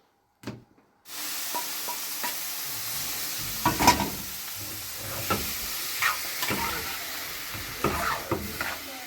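A steady hiss that starts suddenly about a second in, with scattered clicks and knocks over it.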